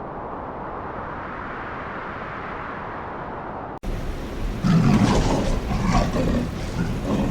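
A steady, muffled rushing noise, then after a sudden cut nearly four seconds in, a large animal's loud, rough growling calls in repeated pulses.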